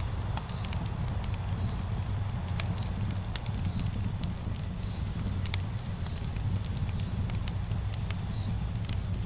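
Campfire burning, with scattered crackles and pops over a steady low rumble.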